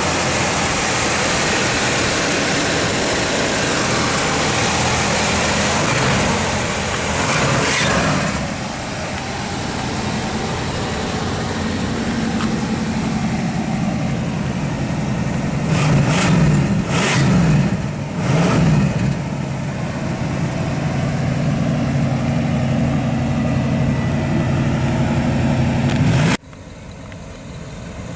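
The 389 cubic-inch V8 of a 1964 Pontiac Catalina Safari Wagon running just after start-up. It is revved once about seven seconds in, then blipped three times in quick succession a little past the middle. The sound drops off suddenly near the end.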